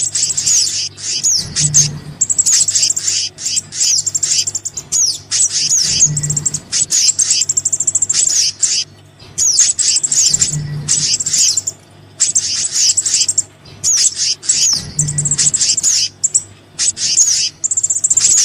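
Bird-lure recording for small songbirds, mixing the calls of the sogon and the kehicap. Rapid high chirps and quick falling whistles come in bursts of a second or two with short gaps, over a steady low hum.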